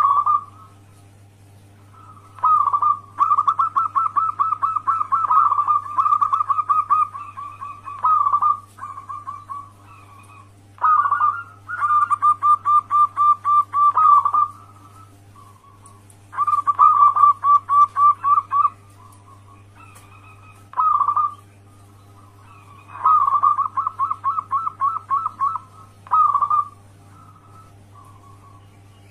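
Zebra dove (perkutut) cooing: repeated phrases of quick staccato coo notes, each lasting one to three seconds with short pauses between, over a steady low hum.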